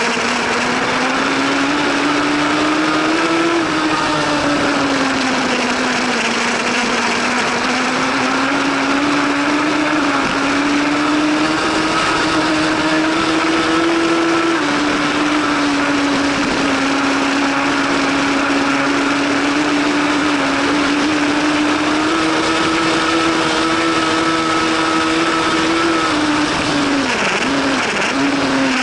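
A 1000 cc superbike engine running hard at high revs on track, its pitch slowly rising and falling with the throttle, over heavy wind rush. Near the end the pitch dips sharply a couple of times, as on quick downshifts under braking.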